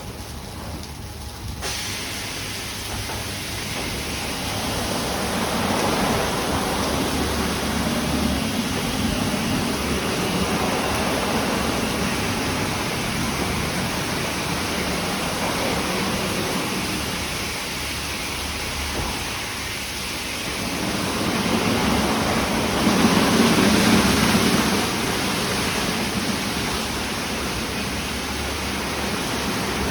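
Istobal Restyle rollover car wash running, its water jets spraying with a steady hiss that swells louder twice.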